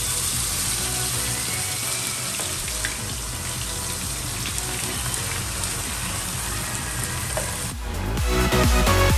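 Chicken and masala gravy sizzling in hot oil in a pan, a steady frying hiss, with background music under it. Near the end the sizzle cuts off and the music comes up louder.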